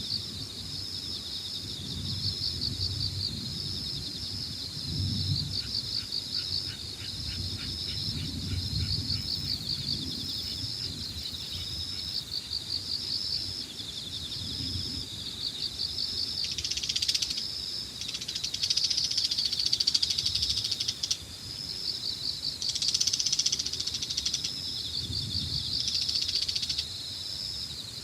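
Evening insect chorus: a continuous high, pulsing trill, with wind buffeting the microphone in gusts. In the second half, louder, harsher chirring calls break in twice for a few seconds.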